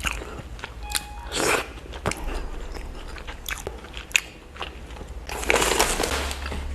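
Close-miked eating: wet mouth clicks and chewing, with crunchy bites, one short and one longer near the end.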